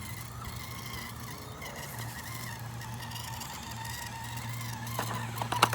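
Radio-controlled rock crawler's electric motor whining steadily as it crawls over an obstacle, with a quick cluster of sharp clicks and knocks near the end.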